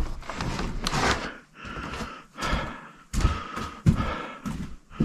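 Irregular knocks, steps and bumps of someone moving about and handling things inside a semi-trailer workshop.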